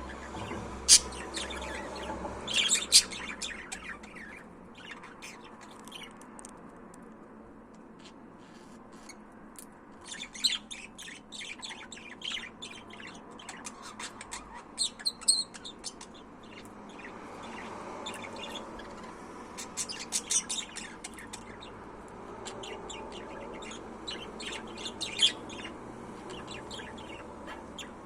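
Budgerigar chirping and chattering in quick, short high calls, with a few sharper, louder chirps in between.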